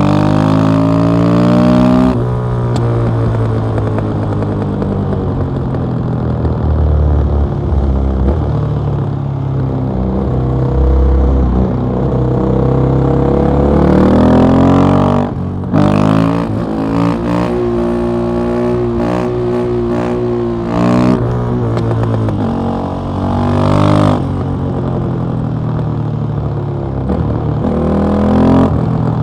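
KTM 660 SMC's single-cylinder engine through an Akrapovic exhaust, ridden hard: the engine pitch climbs and falls repeatedly as the throttle is worked, with a brief drop in the sound about halfway through.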